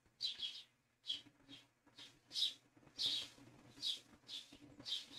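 A bird chirping: short, high chirps repeated irregularly, one or two a second, faint over quiet room tone.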